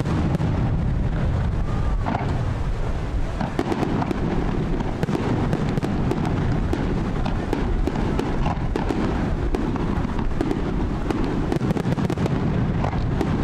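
Fireworks display in full barrage: aerial shells and comets bursting one after another with a continuous low rumble and dense crackling, growing busier a few seconds in.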